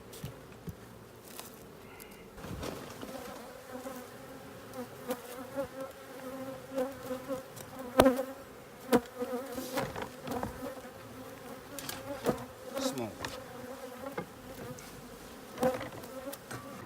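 Steady buzzing hum of a disturbed honeybee colony swarming from its hive in a house roof, broken by several sharp knocks, the loudest about eight seconds in.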